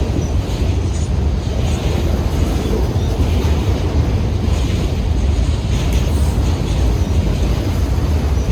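Union Pacific freight train rolling past with a steady low rumble, wind buffeting the microphone.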